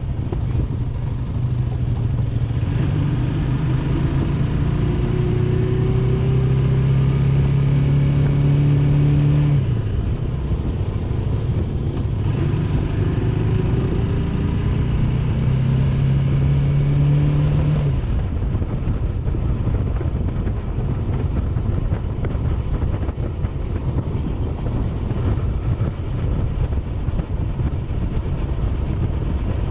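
Motorcycle engine running while riding, under a steady rushing noise. The engine note climbs gradually twice as it accelerates, then fades into the rushing noise for the last third.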